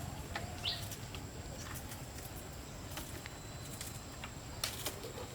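Outdoor rural background: a single short bird chirp about a second in, over scattered light rustles and ticks, with a small cluster of clicks near the end.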